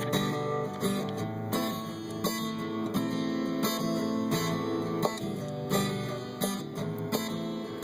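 Acoustic guitar playing a song's instrumental intro, chords strummed with repeated attacks and no singing yet.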